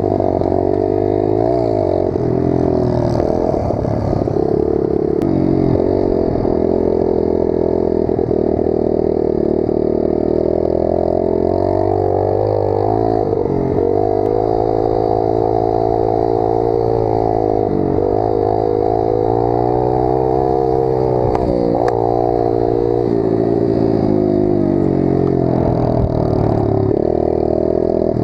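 Pit bike engine revving as it is ridden round a dirt track, its pitch climbing and falling over and over, with brief sharp drops where the throttle closes or the gear changes.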